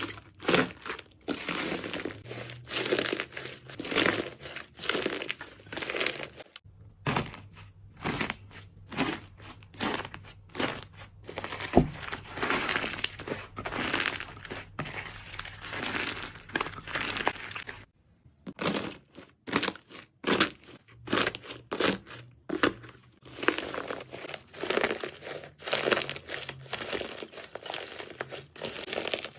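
Jelly slime being squeezed and pressed by hand: a steady run of squishing, crackling strokes a few times a second, which stops briefly twice.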